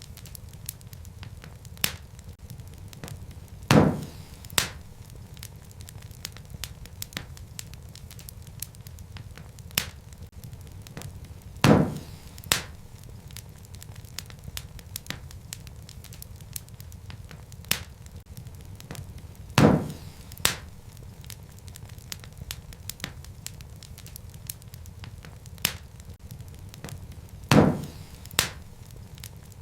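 Wood fire in a fireplace crackling, with a steady low rumble under frequent small snaps. A loud pop followed by a smaller one comes about every eight seconds, four times.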